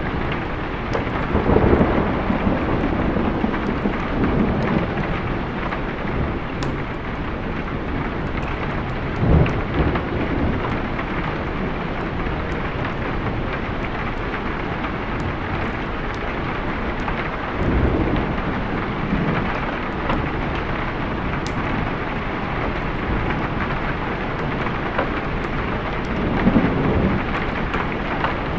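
Steady heavy rain with rolls of thunder rumbling up and fading about four times: near the start, about ten seconds in, past halfway and near the end.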